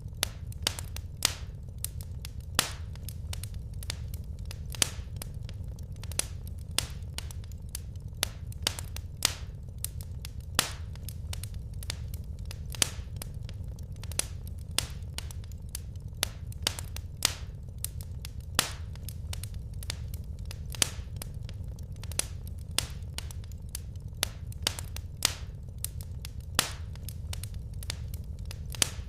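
Wood fire crackling in a fireplace: irregular sharp pops from the burning logs, a few each second, over a low steady rumble.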